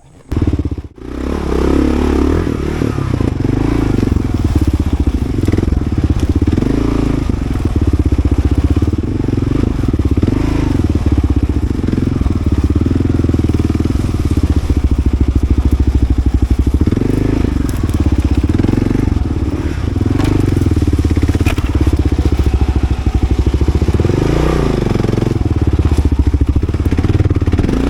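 Kawasaki KLR650's single-cylinder engine revving up and down repeatedly as the bike is ridden through rough, muddy off-road ground.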